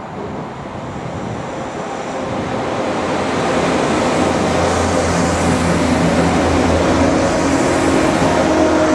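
Irish Rail 22000 Class diesel multiple unit coming into the station and running past along the platform. The rumble of its wheels on the rails grows louder over the first few seconds, then holds steady, with the even hum of its underfloor diesel engines running through it.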